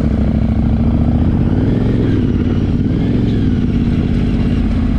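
Yamaha Ténéré 700 parallel-twin motorcycle engine running under way, its note rising and falling a little with the throttle.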